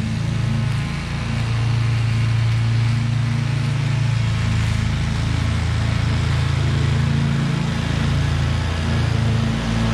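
Husqvarna V554 stand-on zero-turn mower's engine running steadily, its pitch dipping briefly a few times.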